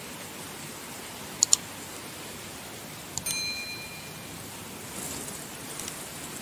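Steady hiss of heavy rain. About one and a half seconds in there are two sharp clicks close together, and just after three seconds a click followed by a short metallic ding that rings for about a second.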